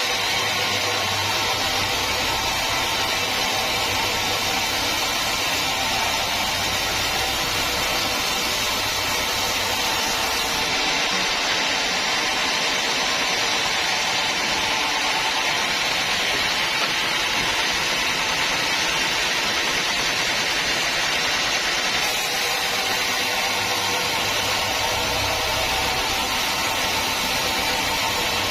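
Sawmill machinery running steadily, a constant engine-and-saw noise with no breaks. Its character changes abruptly about eleven seconds in and again near twenty-two seconds, where the low hum drops out and then returns.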